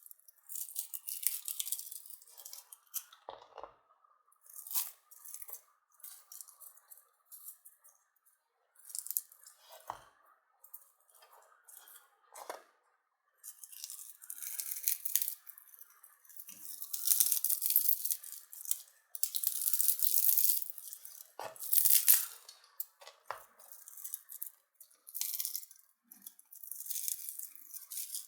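Irregular scraping strokes on a hammer drill's stripped motor armature, hand-cleaning the slots to prepare it for rewinding. The strokes come in uneven bursts, longer and louder in the second half.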